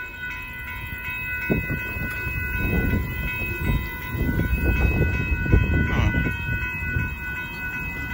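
Freight train of tank cars rolling over a grade crossing: a steady rumble of wheels with irregular clanks and knocks. Under it, several steady tones sound continuously, most likely the crossing's warning bell.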